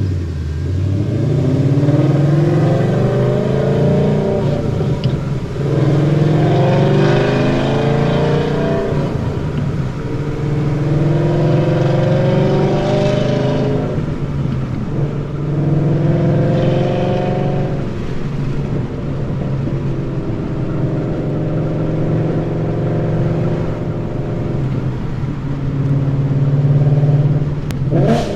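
2013 Mustang GT's 5.0 V8 with BBK long-tube headers, high-flow X-pipe and Roush mufflers, heard from inside the car, pulling through the gears of its manual gearbox. It gives four rising revs, each dropping back at a shift, then settles into a steadier cruise.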